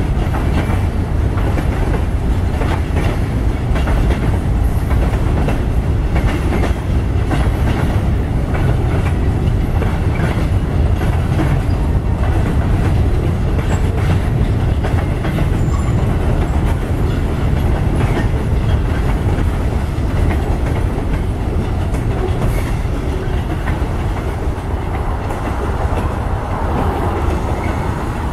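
Boxcars of a mixed freight train rolling past: a steady rumble, with the wheels clacking over rail joints over and over.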